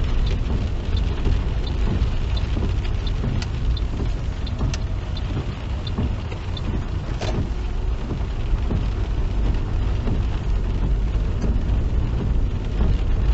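Car driving in rain, heard inside the cabin: a steady low road and engine rumble with scattered small ticks of raindrops on the car.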